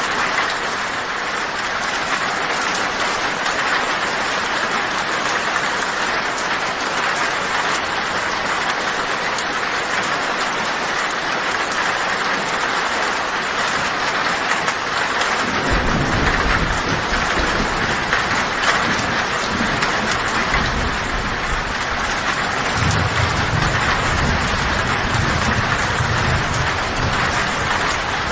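Heavy rain falling steadily on a tin roof. Low thunder rumbles in about halfway through and grows louder for a few seconds near the end.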